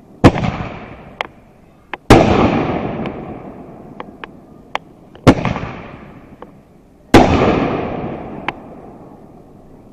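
Aerial fireworks going off: four loud bursts about two seconds apart, each trailing away over a second or two, with smaller sharp pops in between.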